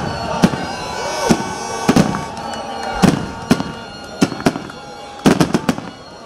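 Aerial firework shells bursting: about a dozen sharp bangs at uneven intervals, with a quick run of several together near the end.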